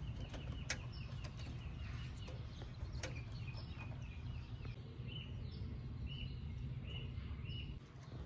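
A bird chirping over and over in short high notes over a steady low rumble, with two sharp clicks, one under a second in and one about three seconds in.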